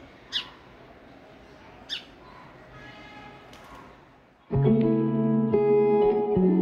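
Two short, sharp bird calls about a second and a half apart, each sweeping down in pitch. About four and a half seconds in, guitar background music starts and is the loudest sound.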